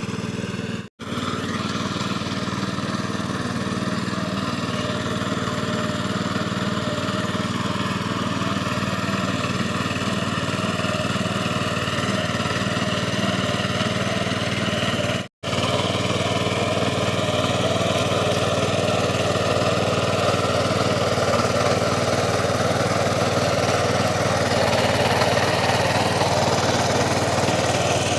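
Mini tractor engine running steadily while ploughing a field. The sound cuts out completely twice for a split second, about a second in and about fifteen seconds in.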